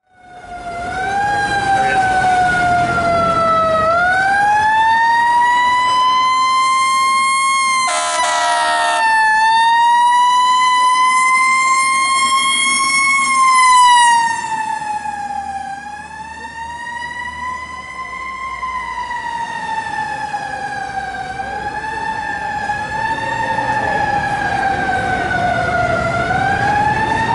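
Fire engine's Federal Q mechanical siren wailing, its pitch winding slowly up and down. An air horn blasts for about a second, about a third of the way in, over the engine's rumble.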